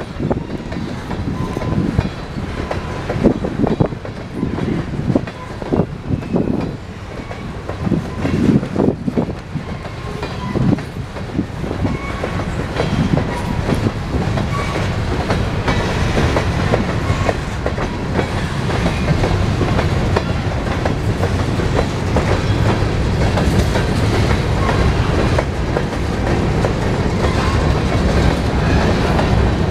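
Empty covered hopper cars of a long freight train rolling past, their wheels clacking over rail joints. The first dozen seconds are uneven knocks, then it settles into a steadier rumble.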